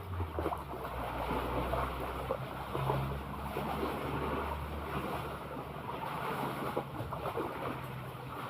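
Sea water washing and wind on the microphone, with a steady low motor drone that is strongest in the first couple of seconds and then fades back.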